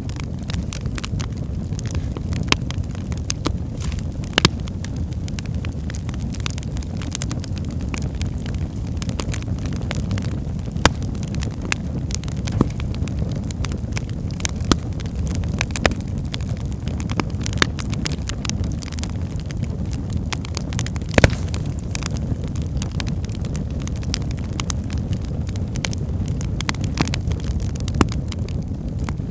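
Wood fire burning in a fireplace: a steady low roar of flames with frequent irregular crackles and pops from the burning logs, a few sharper pops standing out.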